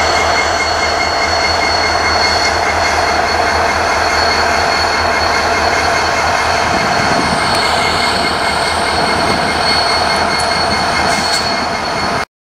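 Loaded freight wagons rolling past at close range: a steady rumble of steel wheels on rail with a thin, high-pitched wheel squeal running through it. The sound cuts off suddenly just before the end.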